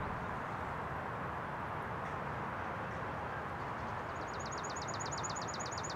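Steady outdoor background hiss, with a bird starting a rapid, even trill of high, quickly falling notes, about ten a second, some four seconds in.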